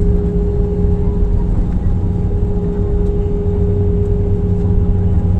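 Jet airliner cabin noise: a steady, loud engine and airflow drone with a constant low hum.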